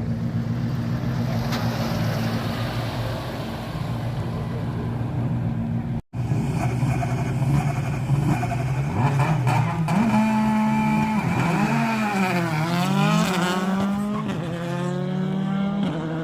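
Truck diesel engines running, with a brief cut about six seconds in; afterwards the engine note rises and falls several times as it revs.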